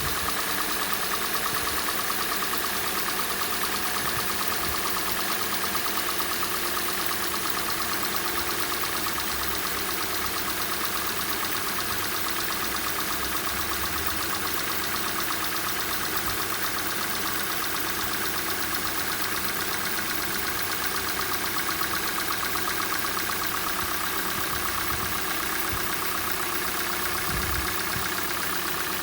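Hyundai/Kia G4NA 2.0-litre four-cylinder petrol engine idling cold with a steady, rapid knocking. This is a cold-start knock that the owner says fades as the engine warms up.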